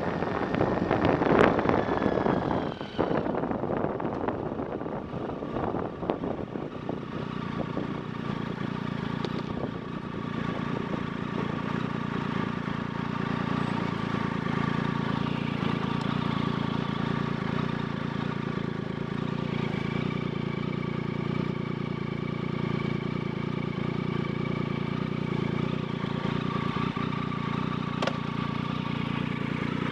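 Loud wind rush over the microphone for the first few seconds, then a vehicle engine running steadily at an unchanging pitch, with one short click near the end.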